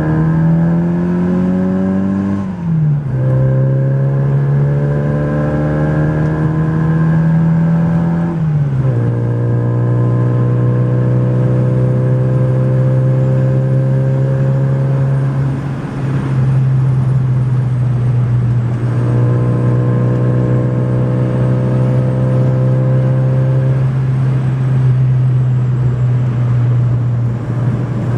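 Mini Downton's tuned A-series four-cylinder engine pulling hard through the gears, its note rising then dropping sharply at upshifts about 2.5 and 9 seconds in, then settling into a steady cruise with a brief lift off the throttle near the middle.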